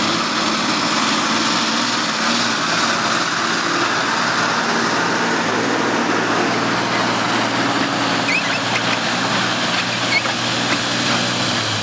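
Truck engine running steadily under a constant mechanical hum.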